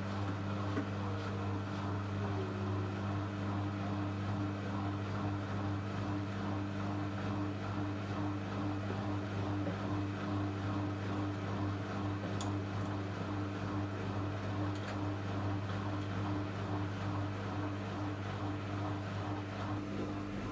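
Samsung Eco Bubble washing machine running with a steady, even hum for the whole stretch, its drum spinning near the end of a cotton cycle.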